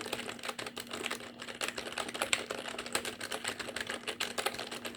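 Rapid typing on a computer keyboard: a dense, fast run of key clicks.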